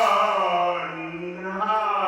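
A man's voice singing or chanting long held notes that slide slowly in pitch.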